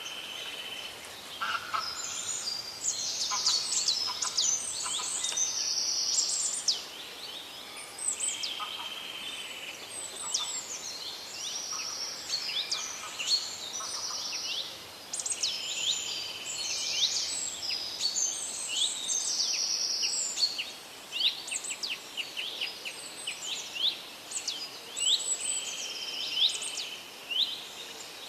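Several birds singing and calling: many quick downward chirps, whistles and short buzzy trills overlapping throughout, over a faint steady hiss.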